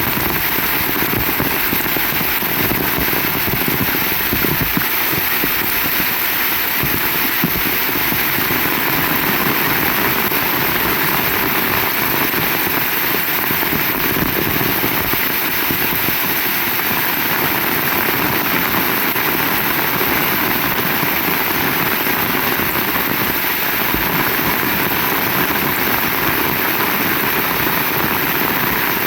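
Heavy rain falling steadily, a dense, even hiss of crackling drops.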